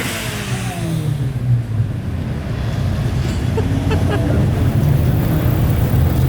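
Car engine running, its pitch falling over the first second and a half, then settling into a steady low drone.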